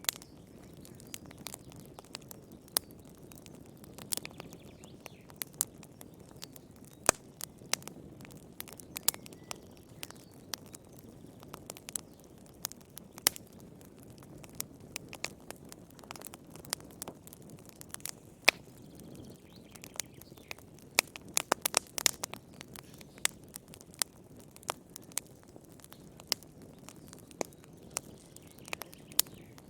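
Wood fire crackling in a fireplace: irregular sharp pops and snaps over a soft low rumble of burning, with a quick flurry of pops about two-thirds of the way through.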